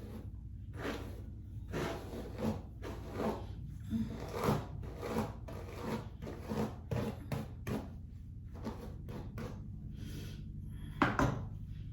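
Repeated short rubbing strokes of hair being brushed, roughly one or two a second, with one louder, sharper stroke just before the end.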